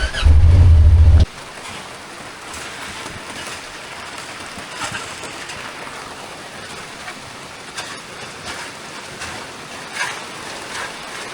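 Steady rain, a continuous hiss with scattered drop ticks. It follows a loud low rumble in the first second that cuts off suddenly.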